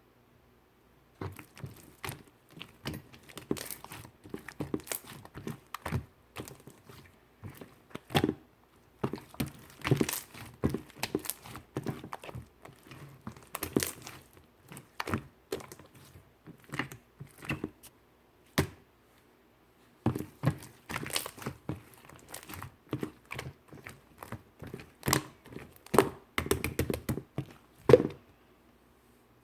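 Slime being squished, poked and stretched by hand, giving an irregular run of sharp clicks and pops with a few short pauses.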